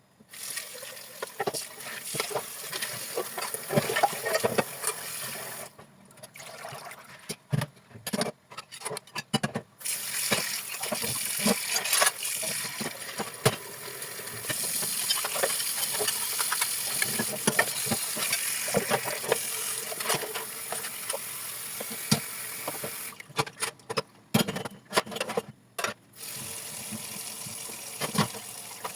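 Kitchen tap running into a sink while dishes are washed, the flow stopping twice for a few seconds, when short clicks and knocks of dishes being handled come through.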